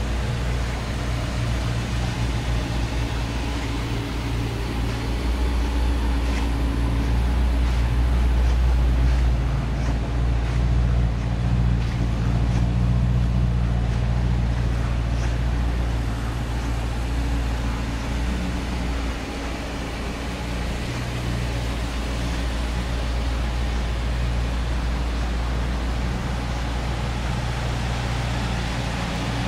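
2005 Maserati Quattroporte's 4.2-litre V8 idling steadily, a little louder for several seconds about a third of the way in.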